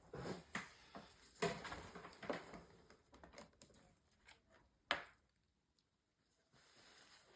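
Scattered light taps and clicks of small objects being handled, with a sharper click about five seconds in followed by a short stretch of dead silence.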